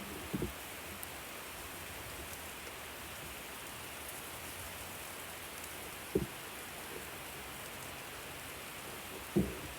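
Steady hissing sizzle of food cooking on a hot barbecue grill, with three short low knocks: one just after the start, one about six seconds in and one near the end.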